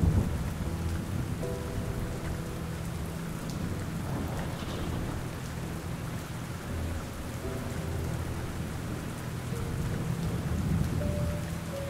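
Steady rain with a low rumble of thunder that eases off about a second in, over quiet ambient music of held low notes.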